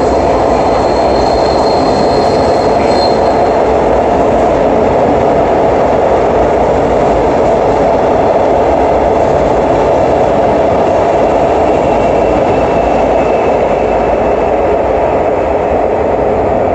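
Renfe Cercanías commuter train running along the platform in an underground station: a steady, loud rumble of wheels on rail, with a thin high squeal that fades out about three seconds in.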